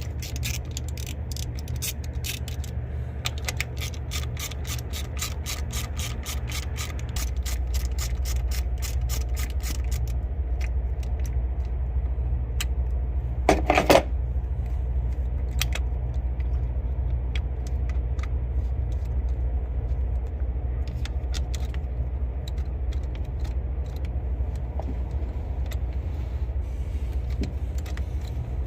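Hand ratchet wrench clicking in quick, even strokes for about ten seconds while the thermostat housing bolts are backed out, then occasional clicks and one louder metallic clatter about halfway, over a steady low rumble.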